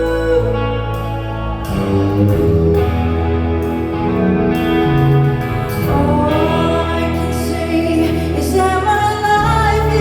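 Live band music: a song with a singer over guitar and bass.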